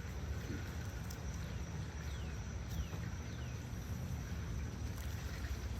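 Backyard ambience: a steady low rumble, with a bird giving three quick descending chirps about two to three and a half seconds in.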